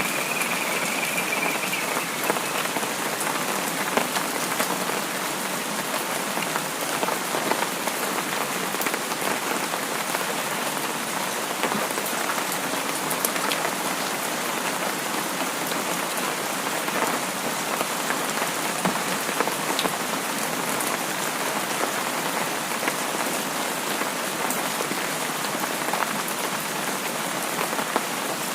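Steady rain falling, with the close patter of individual drops striking a surface.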